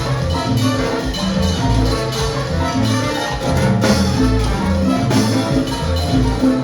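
A salsa band playing live, with a walking bass line under percussion and horns; a sharp crash-like hit sounds about four seconds in.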